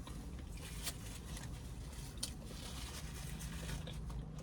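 Faint eating noises: soft chewing and handling of a sandwich, with a few small clicks, over a low steady hum.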